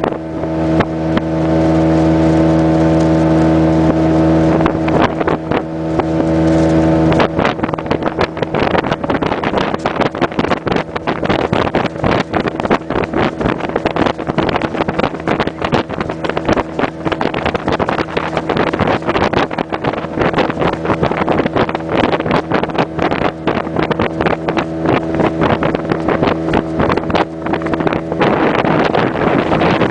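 Motorboat engine running steadily at speed, with wind buffeting the microphone. From about seven seconds in, the engine's tone drops back under a dense, irregular run of knocks and rushing noise.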